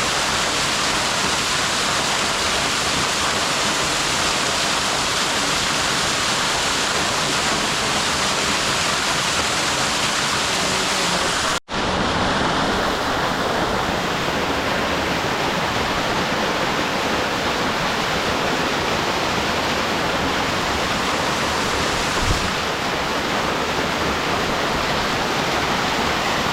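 Waterfall rushing steadily. The sound cuts out for an instant about halfway through, and there is a soft knock near the end.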